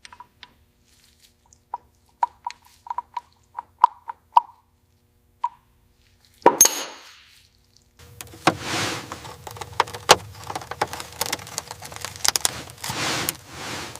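A series of light taps and knocks, then one loud clank that rings out about six and a half seconds in, followed by a continuous clattering noise full of sharp clicks.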